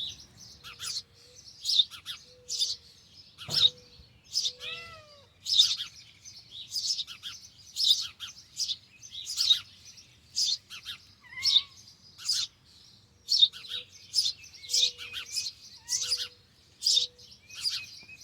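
Nestling birds in a nest chirping, short high calls repeated over and over, more than once a second. A few lower whistled notes that glide in pitch come in between.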